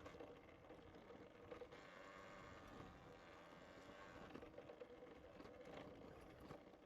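Near silence: a faint, steady rolling noise from a bicycle being ridden.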